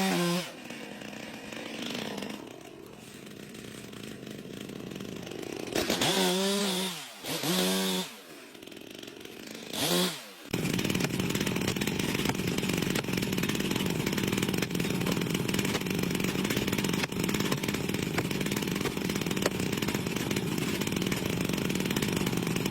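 Chainsaw revved in several short throttle blips that rise and fall, with lower running between them, then running steadily at high speed from about ten seconds in.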